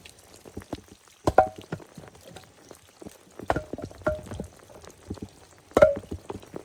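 A series of irregular sharp knocks, each with a brief ring, the loudest about a second in, twice around the middle and again near the end, over a faint steady hiss.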